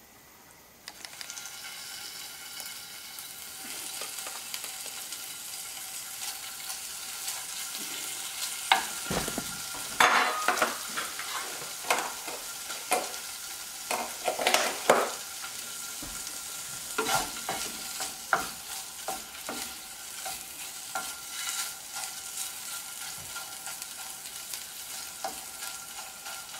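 Fish livers sizzling in oil in a non-stick frying pan on a low gas flame. The hiss starts about a second in as they go into the pan, with many pops and crackles as the livers give up their oil. Near the end a wooden spatula stirs them.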